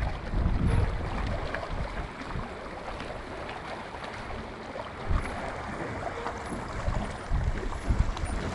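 Wind buffeting the microphone in gusts, low rumbling bursts over a steady rushing hiss.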